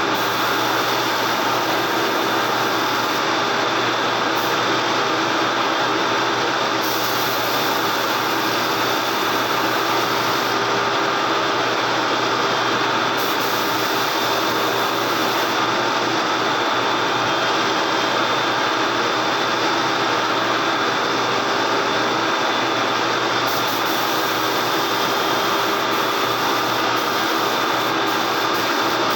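A power tool running steadily without a break, a constant whirring hiss with a few steady tones.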